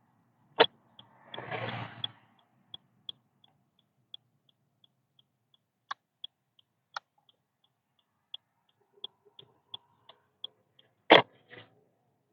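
Car turn-signal indicator ticking steadily, about three even ticks a second, with a sharp click about half a second in and another loud click near the end, where the ticking stops; a brief rustle follows the first click.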